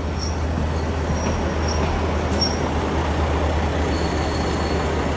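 Kishu Railway diesel railcar running: a steady low rumble of engine and wheels on track, with several brief high wheel squeals in the first half and a thin high whine near the end.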